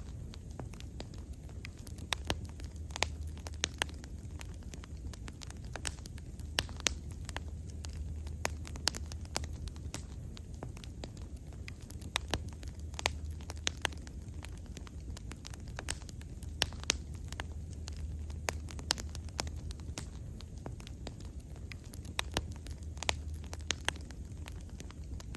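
Wood bonfire burning, with frequent sharp, irregular crackles and pops over a low steady rumble.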